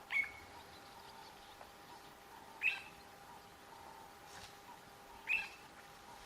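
A short, high-pitched animal call, three times at even intervals of about two and a half seconds, over a faint steady hum.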